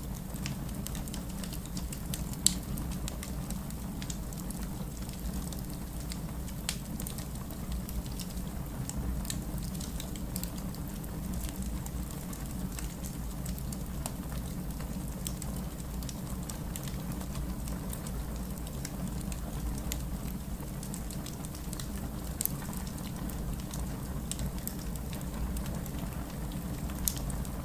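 Fire crackling in a fireplace: a steady low rumble with scattered small crackles and a few sharper pops, the loudest about two and a half seconds in.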